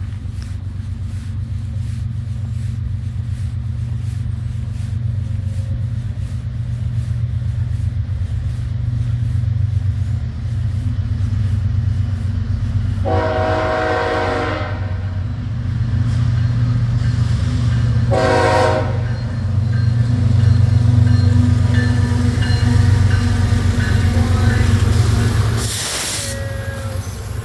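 Heavy diesel rumble of a loaded coal train's lead locomotives, a BNSF ES44AC with an SD70ACe, growing louder as they approach. The locomotive air horn sounds a long blast about halfway through and a shorter blast a few seconds later.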